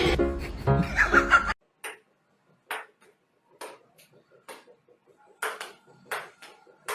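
Music that cuts off abruptly about a second and a half in, followed by irregular light clicks and taps.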